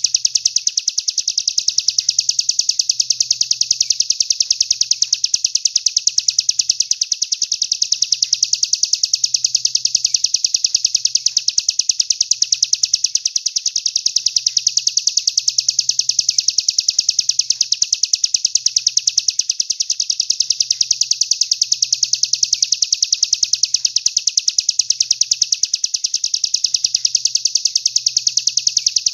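A songbird's rapid, unbroken high trill of very fast, even pulses, played as a looped masteran recording for training competition songbirds.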